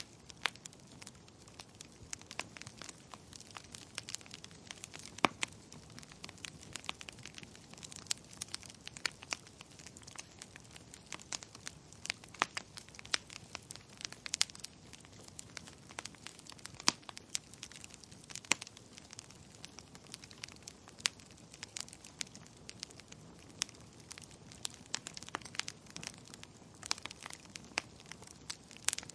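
Wood fire crackling in a fireplace: dense, irregular snaps and pops over a faint steady hiss.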